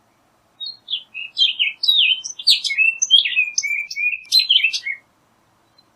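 Orchard oriole singing one rapid, jumbled song of varied whistled notes, about four and a half seconds long, starting about half a second in and ending in a falling slurred note.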